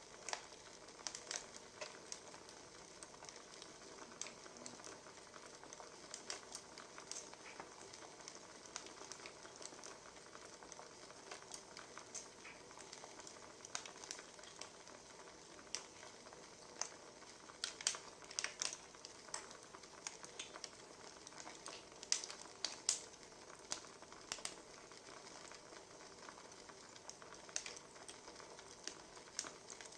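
Wood fire crackling: a steady soft hiss with irregular sharp pops and snaps, which come in a denser, louder flurry a little past the halfway point.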